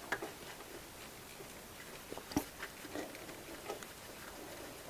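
Faint, scattered clicks and small taps of a power steering hose fitting and its bolt being handled and set in place by hand, with one sharper click about halfway through.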